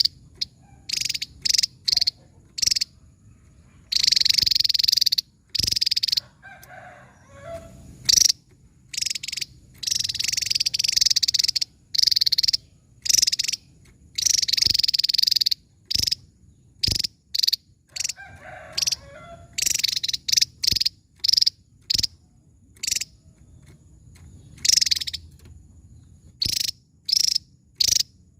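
Javan tesia singing: a rapid string of high-pitched song bursts, some very short and some held for a second or more, with brief pauses between them. A fainter, lower call comes twice in the gaps.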